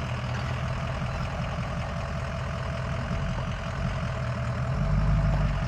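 Pickup truck engine running at low speed while manoeuvring the camper rig, with a steady low rumble that swells briefly near the end.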